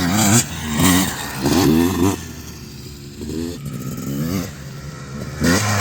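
Dirt bike engines revving in repeated surges, the pitch climbing and dropping several times as the riders accelerate and shift, with a quieter lull in the middle.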